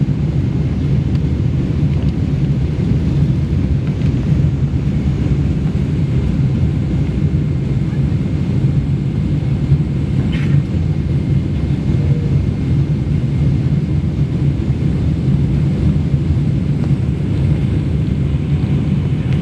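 Steady low rumble inside an airliner's passenger cabin.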